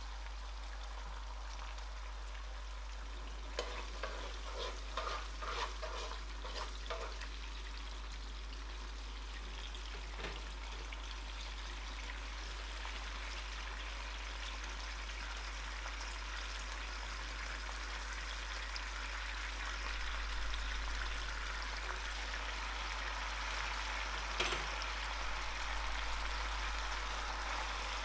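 Garlic cloves sizzling in oil and sauce in a nonstick pan: a steady frying hiss that grows slightly louder. A spoon clicks against the pan several times a few seconds in, with single knocks about ten seconds in and near the end.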